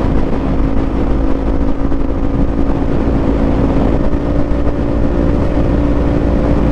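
Parallel-twin sport motorcycle engine running at high revs while cruising at steady speed, with heavy wind rush on a helmet microphone.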